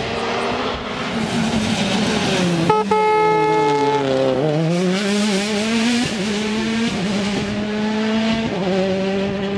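Rally car's turbocharged engine running hard on a stage, its pitch rising and falling through gear changes. It dips sharply about four seconds in and then climbs again.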